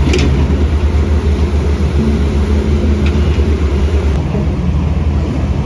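Heavy diesel engine of construction machinery running steadily with a deep drone, with a couple of short knocks, one near the start and one about three seconds in.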